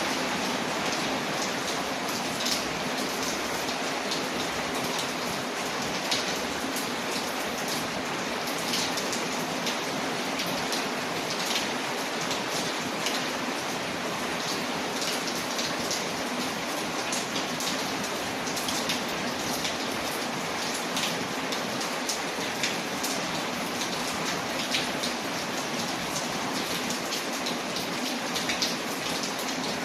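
Steady rain against a window, mixed with a crackling wood fire. It is an even hiss with frequent small, sharp pops and ticks scattered through it.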